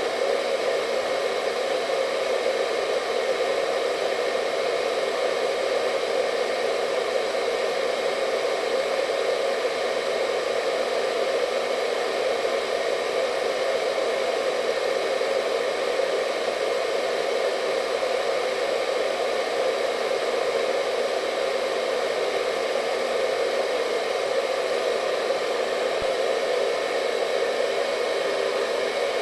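Hair dryer running steadily: an even rush of blown air, strongest in the low-middle range, with a faint whine from the motor above it and no change in speed.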